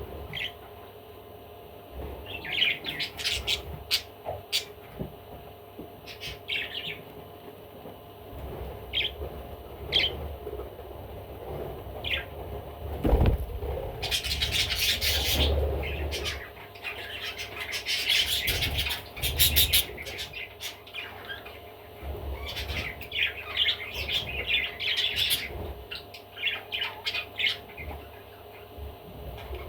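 Pet budgerigar chirping and chattering in short bursts, busiest in the middle of the stretch and again near the end, with a low bump about thirteen seconds in.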